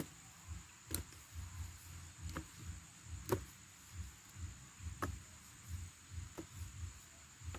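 Steady high-pitched insect drone, with soft low thumps about twice a second and a few sharp clicks.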